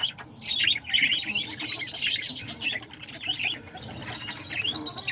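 Many caged parakeets chattering together, a continuous overlapping stream of short, high chirps.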